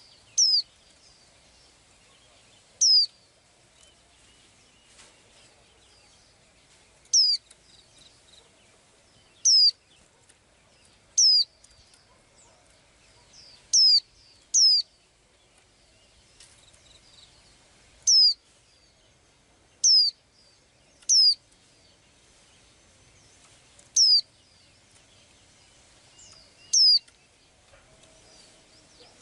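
A small bird giving single short, high chirps, each a quick downward sweep, about a dozen of them at irregular gaps of one to four seconds.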